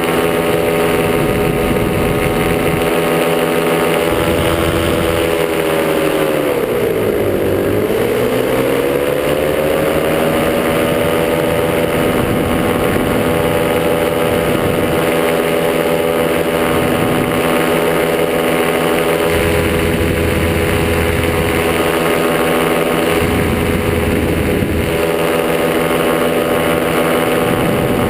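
Miniplane Top 80 paramotor's single-cylinder two-stroke engine running steadily in flight. Its pitch dips about six seconds in as the throttle eases, then climbs back over the next few seconds.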